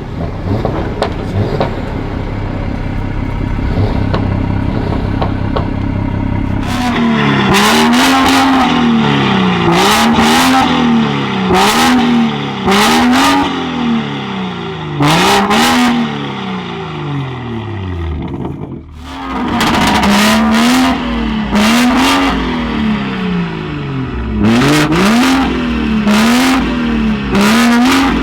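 BMW 440i Gran Coupe's turbocharged 3.0-litre straight-six, stage 2 tuned with a catless downpipe and M Performance exhaust, idling steadily for several seconds, then revved again and again, each rev rising and falling in about a second and a half. Sharp cracks from the exhaust come as many of the revs peak and drop.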